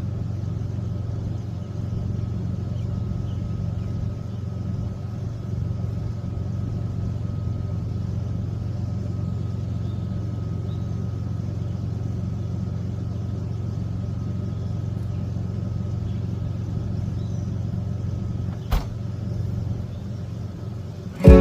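Steady low rumble with a faint high steady tone, and a single sharp click near the end.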